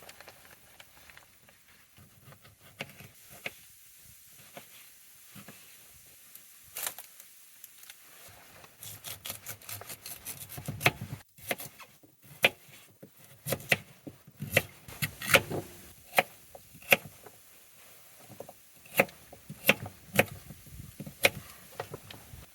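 Firewood being handled for a campfire: sharp wooden knocks and clacks, sparse at first, then coming thick and irregular from about nine seconds in.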